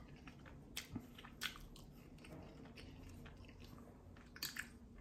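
Faint chewing of a mouthful of McDonald's spicy crispy chicken sandwich, with scattered soft mouth clicks and small crunches, a few sharper ones near the end.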